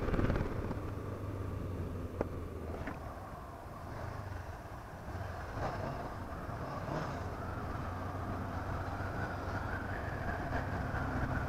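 Honda CB500F's parallel-twin engine running steadily while the motorcycle is ridden, with a single sharp click about two seconds in.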